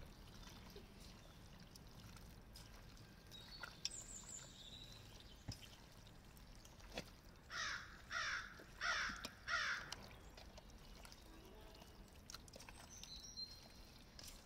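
A bird calls four times in quick succession about halfway through, each call short and rough. Faint high chirps come a little before and after.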